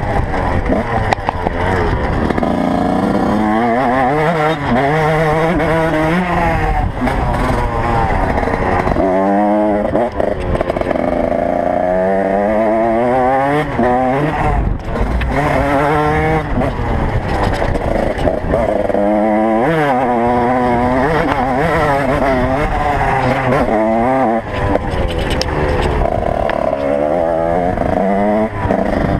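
Motocross motorcycle engines revving hard, their pitch rising and falling over and over as they accelerate and shift, with more than one bike heard at once at times.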